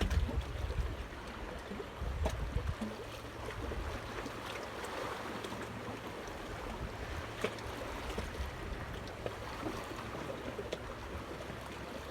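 Wind buffeting the microphone for the first couple of seconds, then a steady wash of moving water with a few faint clicks.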